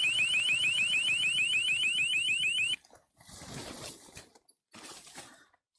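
Electronic alarm sounding in rapid rising chirps, about eight a second, that cuts off suddenly about three seconds in, followed by a few brief rustling noises.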